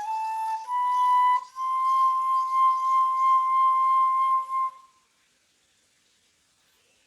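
Solo flute playing a slow melody: a couple of short notes, then one long held note that stops about five seconds in, leaving near silence.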